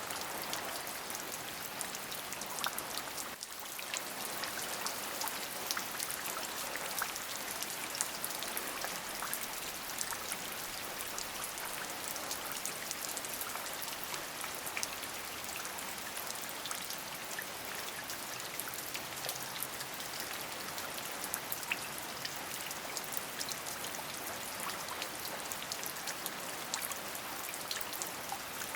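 Steady rain: a constant hiss with many single drops ticking through it.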